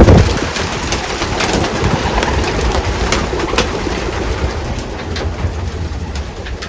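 Racing pigeons cooing in a loft, with scattered sharp clicks and scuffs throughout.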